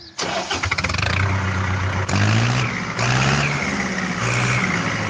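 Swaraj 735 tractor's diesel engine running and being revved, its pitch rising three or four times, with a few abrupt jumps in the sound.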